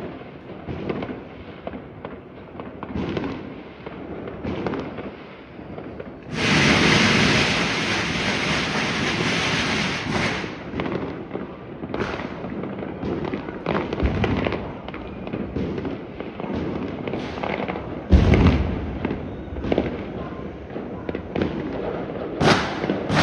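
New Year's fireworks and firecrackers going off, with scattered bangs and pops throughout. A dense, loud crackling burst runs from about six to ten seconds in, and a single loud bang comes a little after eighteen seconds.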